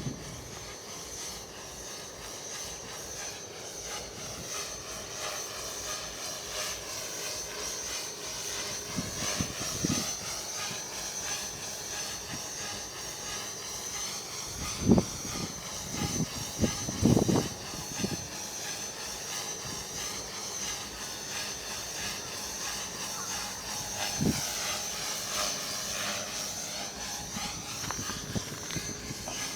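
Radio-controlled model airplane's motor whining in flight, its pitch slowly rising and falling as the plane moves around the sky, with a few gusts of wind on the microphone.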